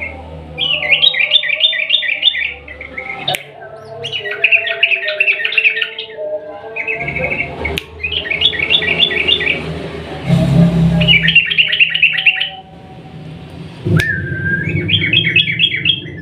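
Yellow-vented bulbul (trucukan) singing in repeated bursts of rapid chattering notes, about six bursts of roughly a second each.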